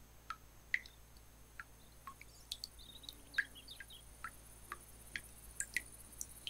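Faint bird chirps: short single notes and a few brief twitters, scattered irregularly over a faint steady low hum.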